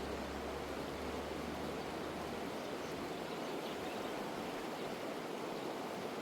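Steady rushing noise with a low rumble underneath that fades out in the first few seconds.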